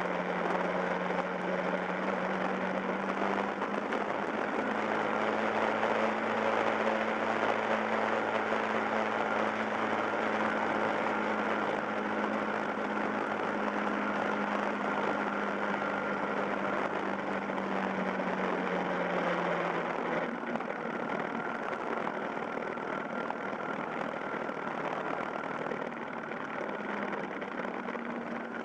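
Yamaha Fazer YS250's single-cylinder engine running at a steady cruise, with wind and road noise around it. Its note rises slightly about five seconds in and drops away about two-thirds of the way through.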